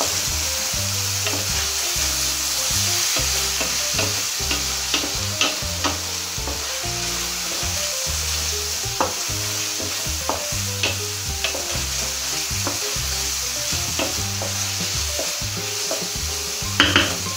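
A sofrito of cuttlefish, onion, pepper and tomato frying in a paella pan, sizzling steadily as a wooden spatula stirs it, with scattered sharp clicks and scrapes of the spatula against the pan.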